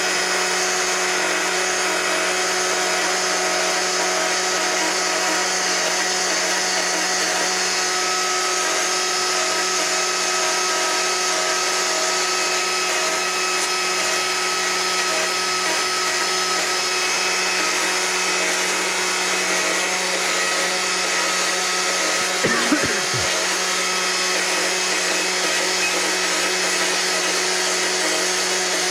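Electric die grinder with a flame burr running at a steady high-pitched whine as it cuts fur texture into the wood, with a brief catch in the sound about two-thirds of the way through.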